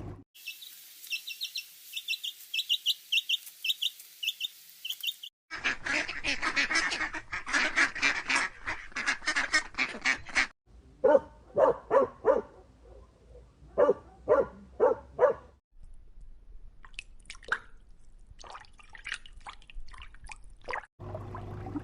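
A run of separate bird-call clips: about five seconds of high, rapid chirping, then ducks and geese quacking and honking, first densely as a flock and then in spaced-out repeated calls.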